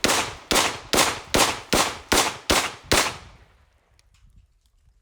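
Rapid gunfire: a string of eight single shots, evenly spaced about two and a half a second, stopping about three seconds in.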